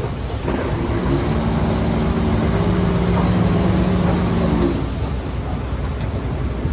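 A heavy diesel engine of earthmoving machinery runs with a steady note that weakens and roughens about five seconds in.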